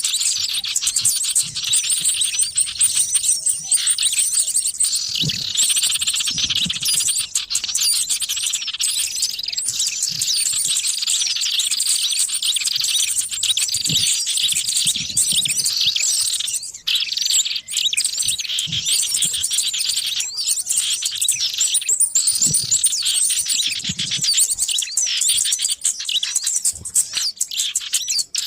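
A noisy chorus of many small birds chirping and twittering at once, used as a lure call for trapping small wild birds. The rapid, overlapping high chirps run without a break, with a few faint low thuds here and there.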